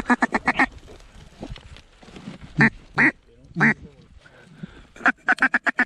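Mallard duck call blown in quacking strings to incoming mallards: a quick run of about six quacks at the start, three louder single quacks in the middle, and another quick run near the end.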